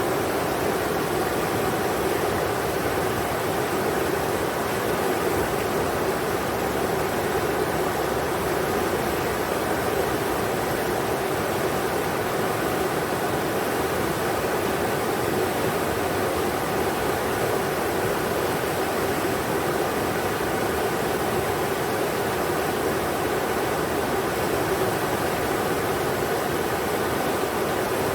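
River water rushing steadily, an even, unchanging noise like white noise.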